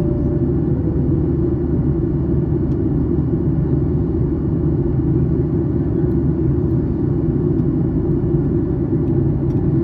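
Steady in-flight cabin noise of a Boeing 737-800 during descent: a continuous low rumble of its CFM56-7B turbofan engines and rushing air, heard from inside the passenger cabin.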